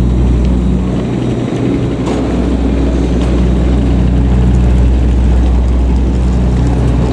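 Steady low drone inside the cabin of an Airbus A320neo, with a few constant hum tones over a deep rumble and no change in pitch: the air-conditioning and systems hum of the airliner standing before departure.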